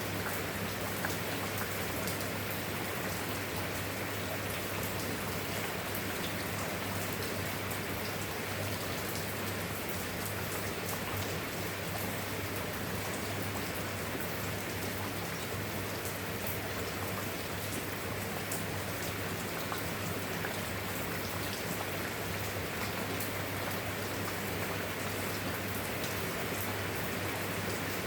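Steady rain, an even hiss dotted with fine drop ticks, with a steady low hum underneath.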